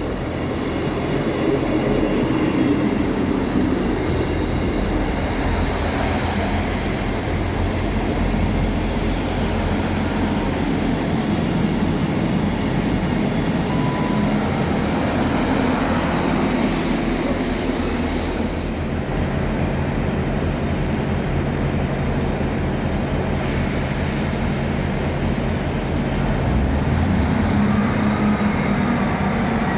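A train running through the station: a steady rail rumble with a low motor hum, and a high whine that rises in pitch near the end.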